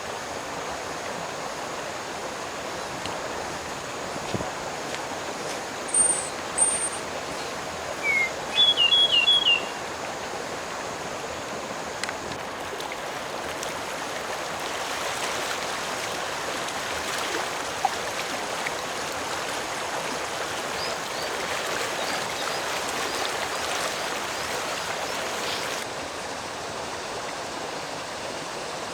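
Steady rushing of a stream's flowing water. A bird calls briefly: two high chirps about six seconds in, then a quick run of four notes about two seconds later.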